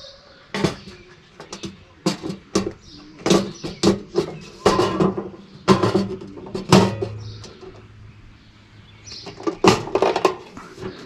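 Irregular knocks and clatters of hard parts being handled and set in place, with a low steady hum coming up about seven seconds in.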